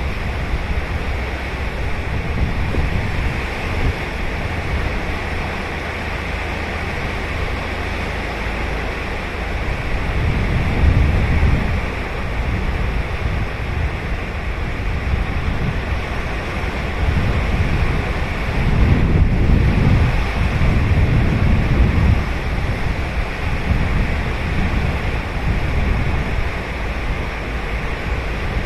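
Ocean surf on a sandy beach: waves breaking and washing up in a steady hiss, with a deeper rumble swelling about ten seconds in and again around twenty seconds.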